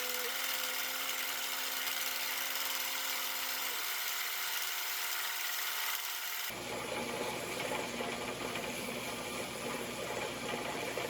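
A small power tool running steadily with a hissing whir. About two-thirds of the way through, it changes abruptly to a different, rougher shop noise with more low rumble.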